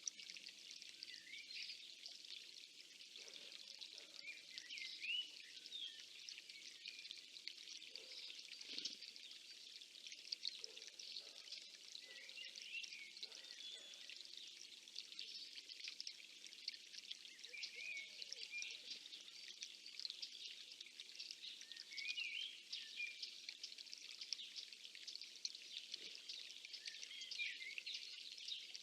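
Faint chorus of many small songbirds singing and chirping at once, with short rising and falling whistled notes overlapping throughout over a light steady hiss.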